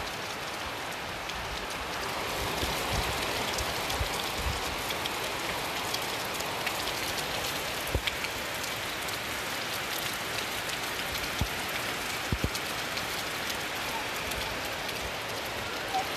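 Steady rain falling, with a few louder single drops or drips knocking now and then.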